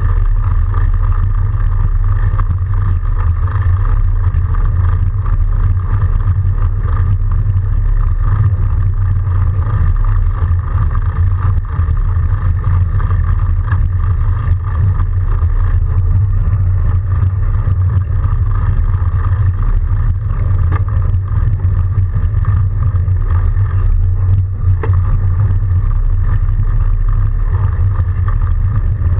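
Steady, loud, unbroken riding noise of an electric-assist fat bike rolling through snow: a deep rumble with a constant hum in the midrange.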